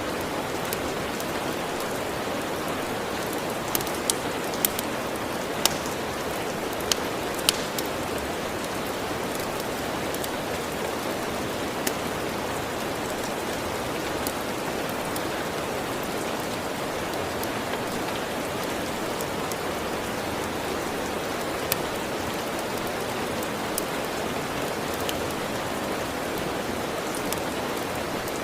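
Steady rain, with the sharp pops of a crackling wood fire on top: a cluster of pops a few seconds in, then scattered single ones.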